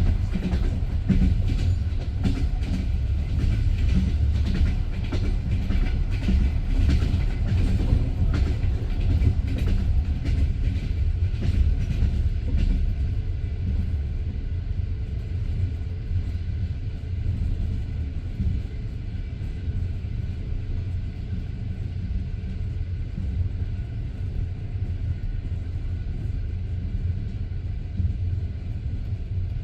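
Passenger train's wheels clicking over rail joints with a steady low rumble of the carriage rolling on the track, heard from inside the carriage. The clicks come thick and fast for roughly the first twelve seconds, then die away and leave a smoother rolling rumble.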